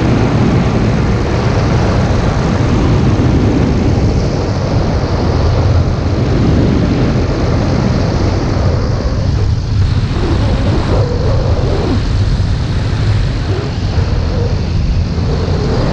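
Fox ultralight aircraft's engine and propeller running steadily and loudly, with a heavy rush of air over it.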